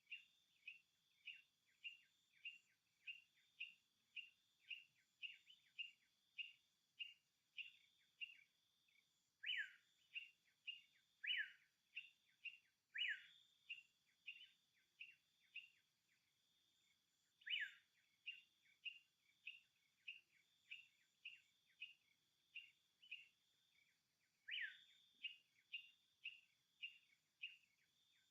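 A bird calling over and over in short downward-sliding notes, about two a second, with a few louder, longer notes now and then. Under it runs a faint, steady high drone like insects.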